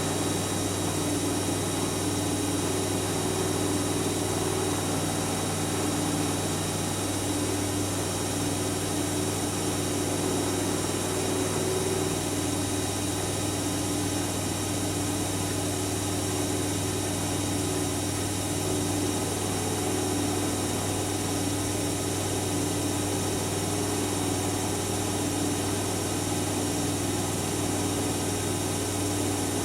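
Siemens Siwamat iQ 716 washing machine running with a steady motor hum. One of its lower tones drops out about seven seconds in.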